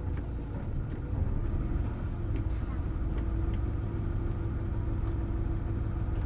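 Hino Blue Ribbon City Hybrid bus (BJG-HU8JLFP) under way, its drivetrain giving a steady low drone with a whine that rises slightly about a second in and then holds. A brief hiss of air comes about halfway through.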